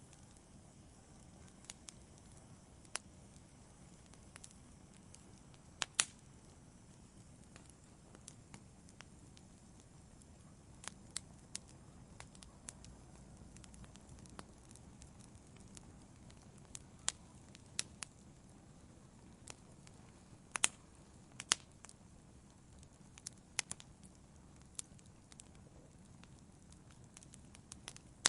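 Fire crackling in a fireplace: irregular sharp pops and snaps over a steady low rumble of the flames. The loudest pops come about six seconds in and again around twenty-one seconds in.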